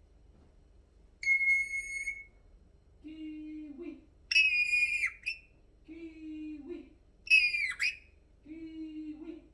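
Alexandrine parrot giving three loud, high whistled calls, the first held steady and the later two ending in a falling glide. Between them come quieter, lower-pitched sounds.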